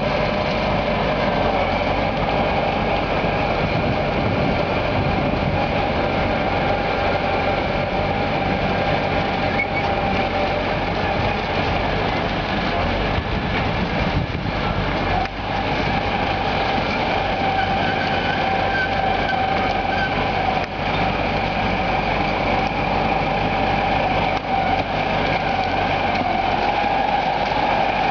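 DT-75NR crawler tractor's diesel engine running steadily, with a constant high whine over the low rumble.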